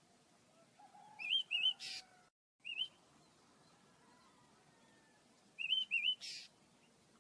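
Small pet birds chirping: two bursts of quick, wavering high chirps, each ending in a short harsh note, one about a second in and another near the end.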